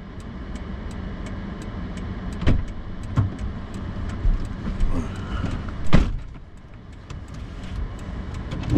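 Truck driving on a snow-covered road, heard from inside the cab: a steady engine and road rumble with a few knocks and bumps, the loudest about six seconds in.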